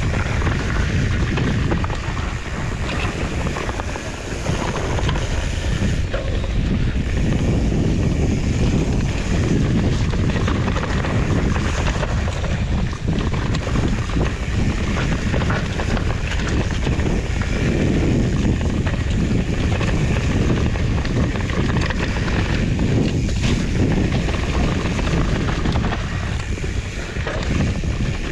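Wind buffeting the microphone of a camera carried by a mountain biker riding a trail, a steady loud rumble.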